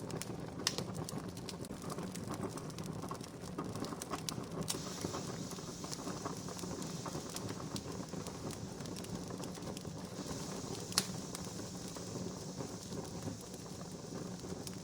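Wood fire crackling, a steady hiss full of small irregular snaps, with two sharper pops: one shortly after the start and one about three-quarters of the way through.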